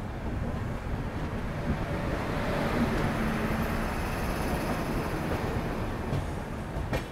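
Golden Temple Express passenger train rolling on the rails as it pulls out of the station: a steady rumble and hiss that swells a little about a third of the way in.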